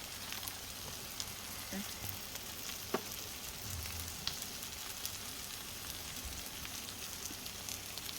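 Pork belly sizzling as it grills on top of a wood stove: a steady frying hiss with occasional small pops and one sharper pop about three seconds in.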